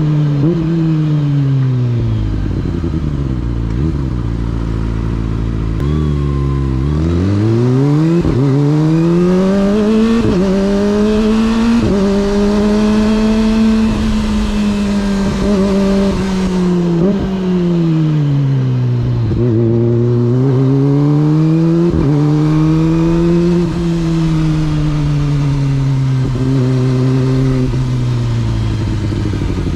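Kawasaki sport motorcycle engine on the move. It slows to a low idle, then accelerates through several gears with a short dip at each upshift, cruises steadily, slows down again and pulls away through the gears a second time.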